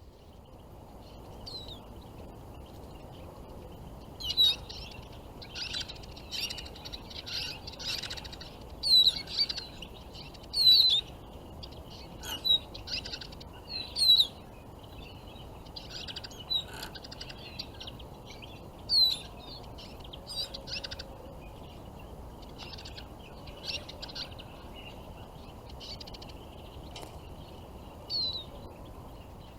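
Small songbirds calling: repeated short, sharp chirps, some sliding in pitch, busiest in the first half and sparser later, over a faint steady background hiss.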